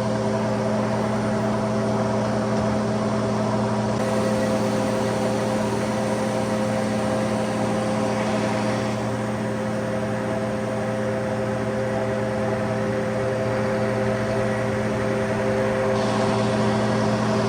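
A vehicle engine running at a steady speed, giving a constant droning hum with no change in pitch.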